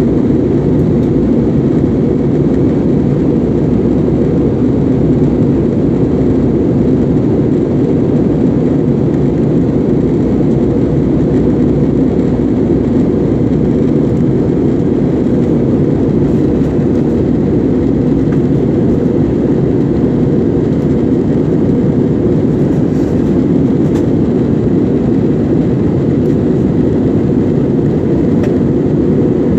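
Steady drone of an Airbus airliner's engines and airflow heard inside the passenger cabin, holding at an even level throughout.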